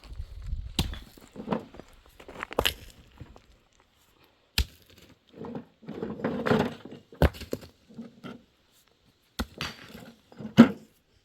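Irregular knocks and thuds, about six sharp ones spread out with pauses between them, and some scraping and rustling in the middle, as of hand work with wood or stone.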